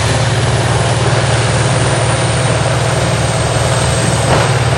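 Large remote-controlled tracked horizontal grinder's diesel engine running steadily under a heavy, deep drone with a grinding hiss over it. A brief sharp knock sounds near the end.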